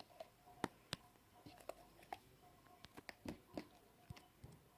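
Slime being mixed and squeezed by hand: soft, sticky clicks and pops at an irregular pace.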